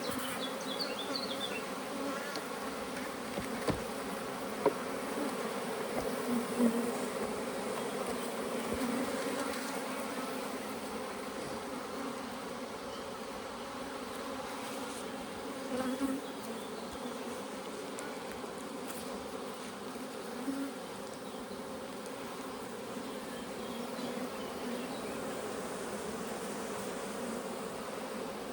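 Honeybees buzzing as a steady, dense hum from an open hive, with a few short sharp clicks and knocks over it, the loudest about five seconds in.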